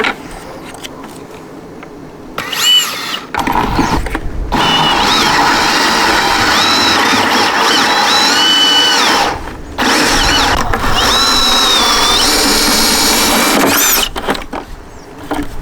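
Power drill boring holes in a 5-gallon plastic bucket for feeder spouts: a short burst, then two long runs of several seconds with the motor's pitch rising and falling, broken by a brief stop about nine and a half seconds in.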